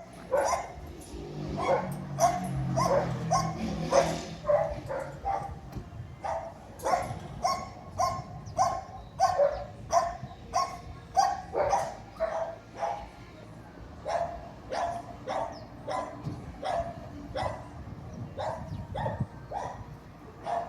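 A dog barking over and over, about one to two barks a second, with a low drone underneath during the first few seconds.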